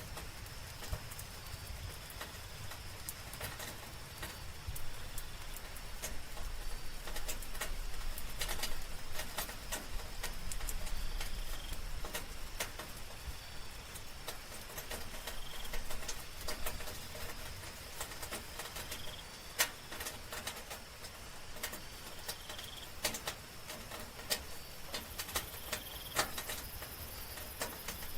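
Soft rain at night, with many separate drops pattering close by, over a steady high drone of night insects. Short chirps recur every few seconds.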